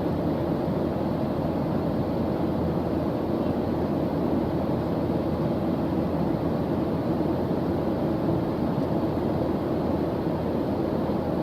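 Steady white-noise study track: an even, unchanging hiss weighted toward low pitches.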